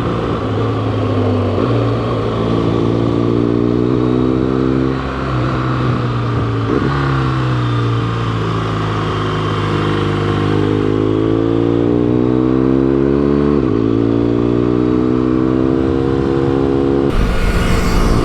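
BMW R1200GS liquid-cooled boxer twin through an SC Project exhaust, pulling under load on the road: its note climbs as it accelerates and drops at each gear change, three times. Wind rush hits the microphone near the end.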